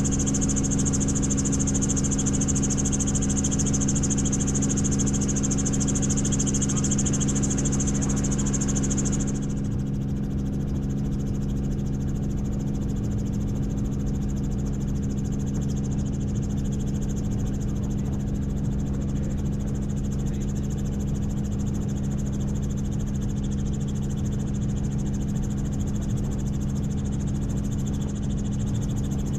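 Helicopter running steadily in flight: a constant engine and rotor drone with a steady low hum, plus a high whine that drops away about nine seconds in.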